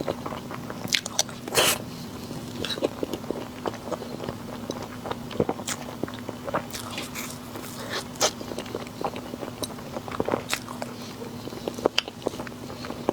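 Close-miked eating of sweets: bites and chewing with many irregular sharp, crunchy clicks.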